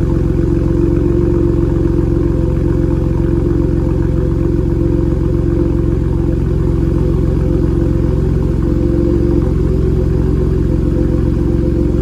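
Ford 3.5 EcoBoost twin-turbo V6 idling steadily through a Borla ATAK exhaust, a low, even exhaust drone with no revs.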